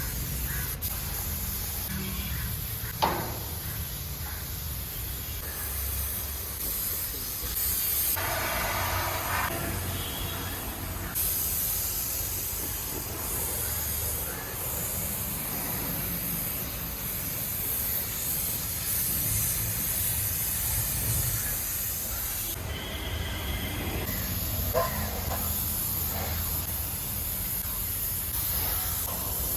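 Paint being sprayed onto the body of a miniature kids' car: a steady spray hiss that gets louder in spells, over a low steady hum, with a couple of brief knocks.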